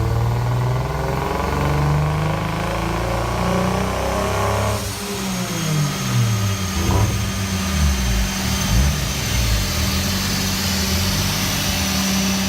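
Toyota Mark II JZX81's straight-six engine on a chassis dyno, pulled up steadily through the revs for about five seconds. About five seconds in the throttle shuts abruptly, and the revs fall and waver through a few smaller blips. A steady low hum runs underneath.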